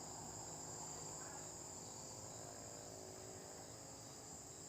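Faint, steady night chorus of crickets chirring.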